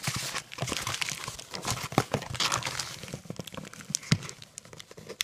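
Packaging being rummaged through and crumpled by hand: irregular crinkling and rustling, with a few sharper snaps, the loudest about two and four seconds in.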